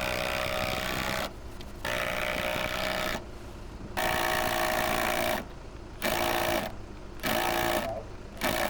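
A 12-volt cordless impact driver drives screws in about six bursts of roughly a second each, with short pauses between them.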